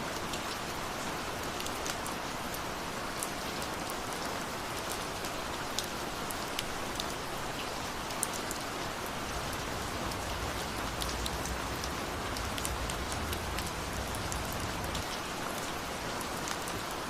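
Steady rainfall with many individual drops ticking sharply on hard surfaces. A low rumble joins in from about the middle and fades a little before the end.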